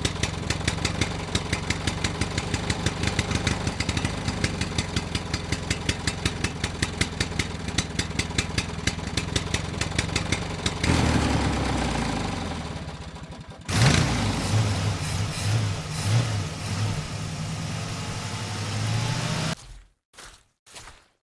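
Tractor engine idling with a fast, even putter. About 11 seconds in the sound shifts and fades, then breaks off. It starts again with a slower pulsing beat and stops abruptly near the end.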